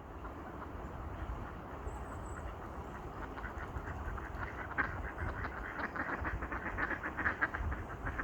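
Ducks quacking, a quick run of calls that builds from about three seconds in.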